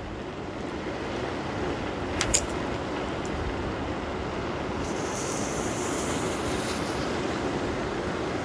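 Strong wind and choppy waves on the bay making a steady rushing noise, with a brief click about two seconds in.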